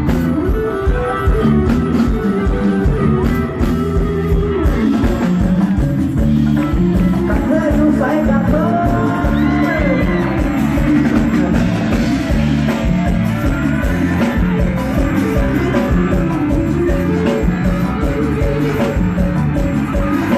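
Amplified live band music with drum kit, bass and electric guitar playing a steady beat, with no words sung.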